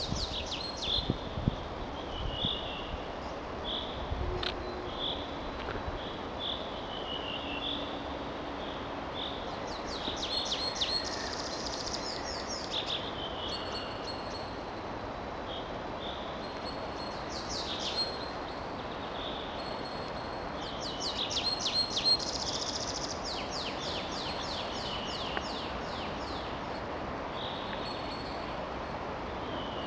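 Wild songbirds singing: repeated short high whistled notes, with rapid trilled song phrases twice, over a steady background hiss.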